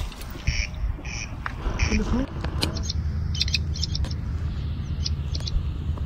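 Small birds chirping: several clusters of short, high calls from about two and a half seconds in, over a steady low rumble.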